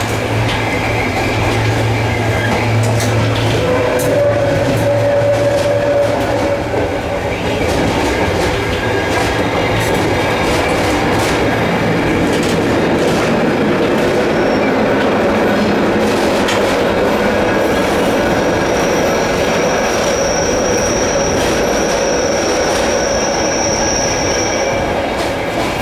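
Loud, steady running noise of a Zentralbahn passenger train heard from inside, in the passage between cars: wheels rumbling on the rails with a clickety-clack. In the second half a high, steady wheel squeal holds for several seconds.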